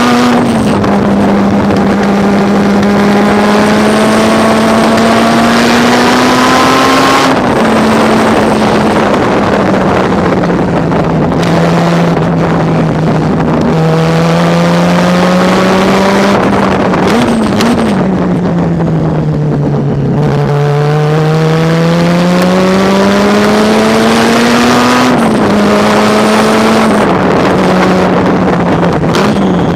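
Race car's rotary engine running hard on track, its pitch climbing through the revs and dropping at gearshifts, then falling under braking. Quick throttle blips come about two-thirds through and again at the end.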